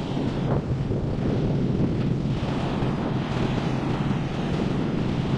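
Strong wind buffeting the microphone in a steady, rumbling rush, with surf washing underneath.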